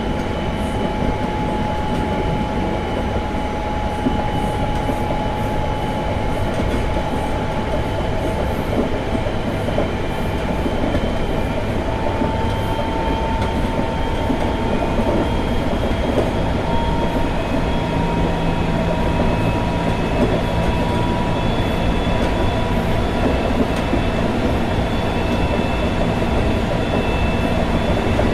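Semboku Rapid Railway 7020 series electric train running between stations, heard from inside the car. A steady rumble of wheels on rail lies under thin motor-whine tones that climb slowly in pitch around the middle.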